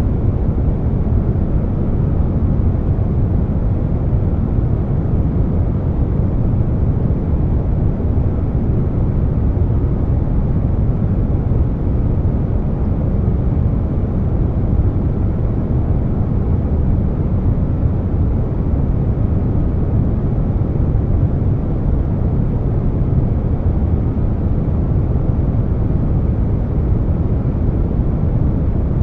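Air conditioner noise blended with brown noise: a deep, steady hiss weighted to the low end, with no hum tones, clicks or changes.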